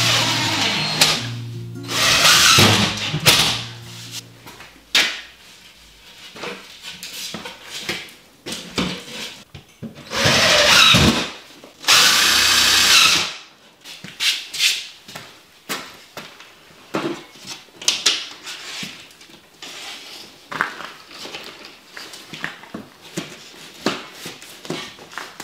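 A power tool, drill-like, runs in short bursts; the two longest last about a second each near the middle, among many knocks and clatters of renovation work. Music with low held notes plays under the first few seconds and then stops.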